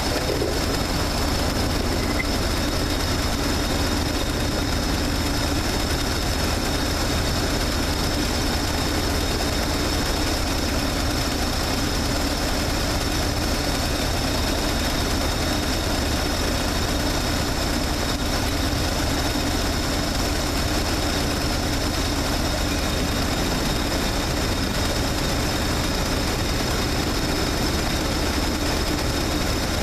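Chevrolet 350 small-block V8 idling steadily at warm idle, with the choke off and the engine coming up to its running temperature of about 180°F.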